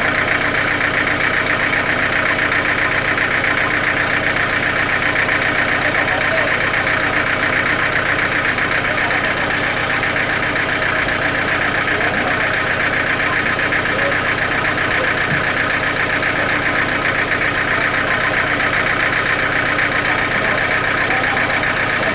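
Sawmill machinery running steadily: an engine-like drone with a fast, even pulse and a bright buzz, unchanged throughout.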